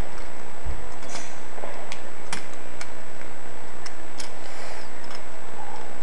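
Plastic parts of a Transformers Mudflap toy clicking and knocking as they are handled and tabbed together: irregular sharp clicks, with a dull thump just under a second in.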